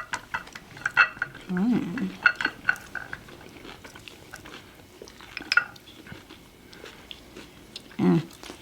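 Utensils clinking lightly against a dish several times in the first three seconds, then quieter small eating sounds. A brief voiced sound about two seconds in and another near the end.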